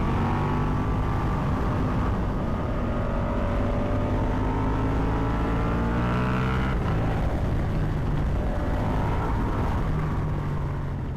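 Ducati Multistrada V4 Pikes Peak's V4 engine running under way, heard from the rider's own bike over wind rumble; its pitch climbs slowly, changes about six to seven seconds in, then holds, and the sound eases off near the end.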